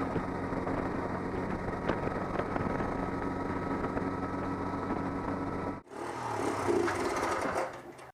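Steady hum of a vehicle's engine and road noise while driving. It breaks off suddenly about six seconds in and gives way to a shorter, different stretch of noise.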